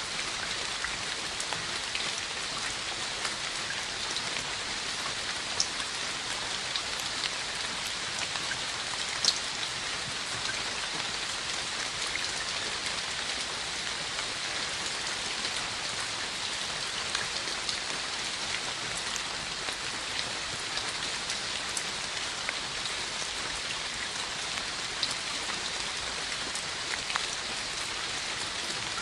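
Steady rain falling, with scattered sharper drop ticks; one drop stands out about nine seconds in.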